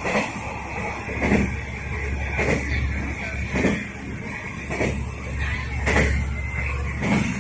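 Diesel railcar running, with a steady low drone and the wheels clacking over the rail joints about once a second.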